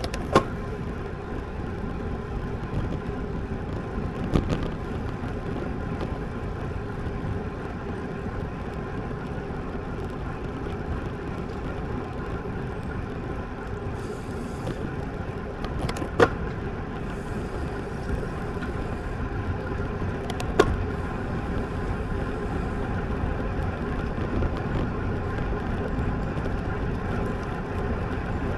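Steady rushing road and wind noise of a road bike in motion, heard on a camera riding with the bike, broken by four short sharp knocks.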